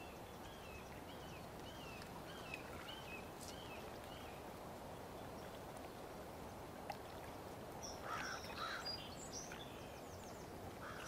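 Quiet outdoor ambience: a steady low background hiss, with a small bird singing a run of short repeated chirps in the first few seconds and a brief cluster of bird calls about eight seconds in.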